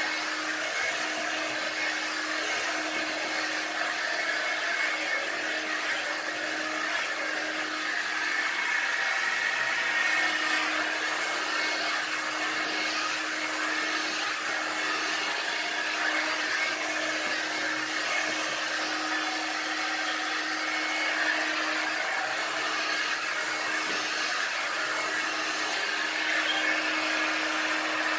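One Step hair dryer and styler, a round hot-air brush, running steadily, its fan and air blowing with a faint steady hum under the rush of air.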